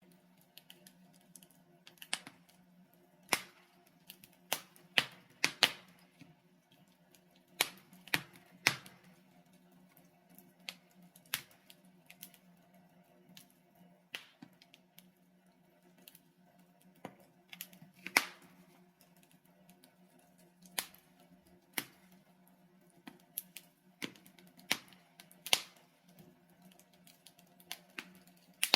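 Logs burning in a fireplace, crackling with irregular sharp pops, sometimes several in quick succession, over a faint steady low hum.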